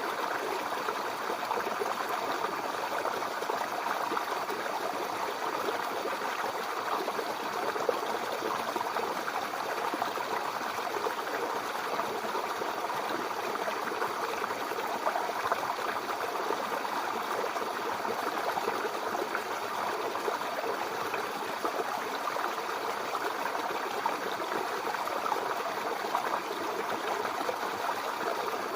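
Mountain river flowing, a steady rushing and babbling of water over rocks.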